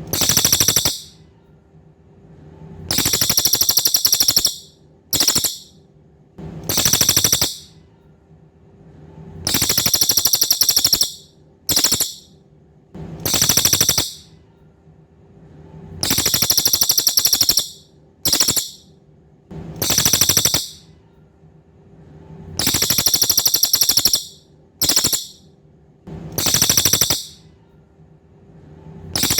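Cililin (Javan pygmy tit) calling in bursts of very high, rapid buzzy trills, alternating long and short. The bursts fall in a repeating group of three about every six and a half seconds. A faint steady hum sits underneath.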